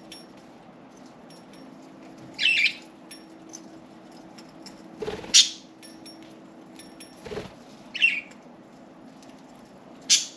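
Pet budgerigars giving short chirps every couple of seconds, with a couple of duller thuds and light clicks in between, over a faint steady hum.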